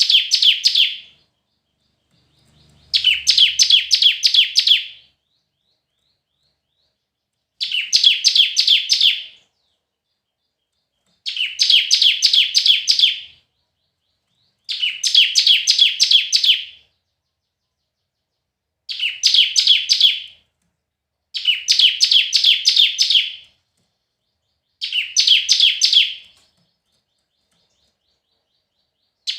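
Bar-winged prinia (ciblek) singing: repeated phrases about two seconds long, each a rapid run of high, sharp chirps, about every three to four seconds.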